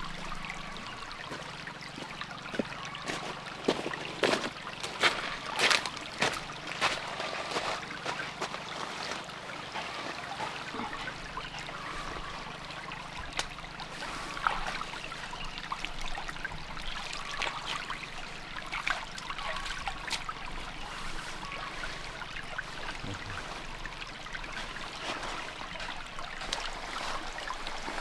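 Stream water trickling steadily, with a cluster of sharp splashes and knocks about four to six seconds in and scattered smaller ones after, as kohlrabi is washed in the stream.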